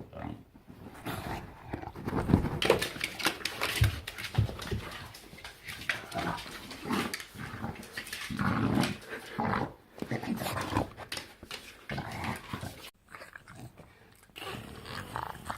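English bulldog making a long run of weird, gremlin-like noises: irregular rough grunts and growls, one after another, with a brief lull about thirteen seconds in.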